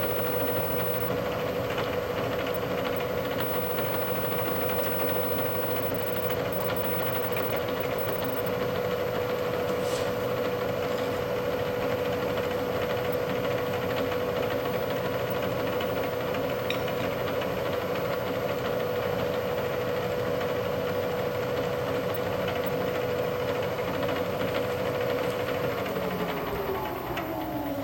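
Milling machine spindle running at a steady speed with a steady hum, while the centre of a hole is picked up with an edge finder. About two seconds before the end the motor is switched off and the pitch falls as the spindle winds down.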